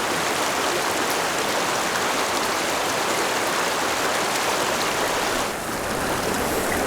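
Steady rush of fast-flowing creek water, an even hiss with no break, dipping slightly about five and a half seconds in.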